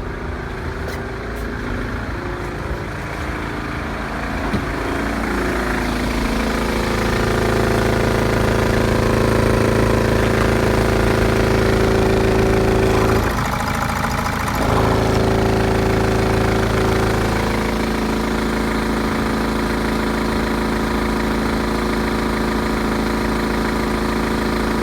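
Mercedes OM611 2.2 CDI four-cylinder diesel engine running. Its revs rise a few seconds in and are held, drop briefly once, then settle back to a steady idle.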